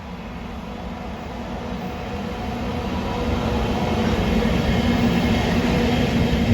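A freight train approaching on the rails, its rumble and motor hum growing steadily louder over several seconds.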